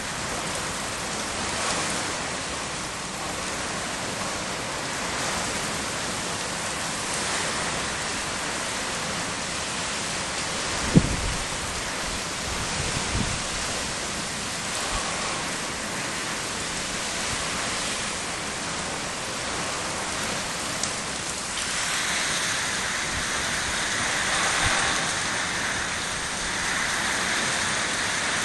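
Heavy rain and wind in a thunderstorm: a steady rushing hiss of rain, with one sharp low thump about eleven seconds in. The rain grows louder about two-thirds of the way through.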